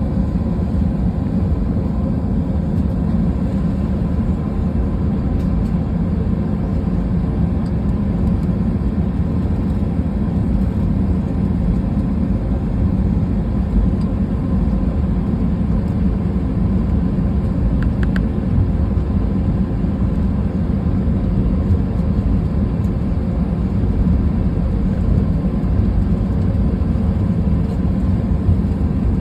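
Airbus A320 cabin noise heard from inside the cabin: a steady low rumble of the jet engines and airframe.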